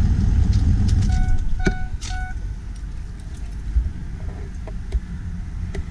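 2004 Ford F-250's 6.0 L Power Stroke turbo-diesel V8 idling, a low rumble that gets quieter after about two seconds. Three short electronic beeps come between about one and two seconds in.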